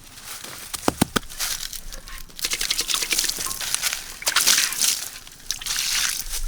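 A few sharp knocks about a second in, then water splashing and sloshing in uneven surges.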